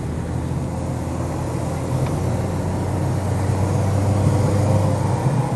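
Car engine and road noise while driving: a steady low engine hum over tyre and road rush, growing a little louder from about two seconds in.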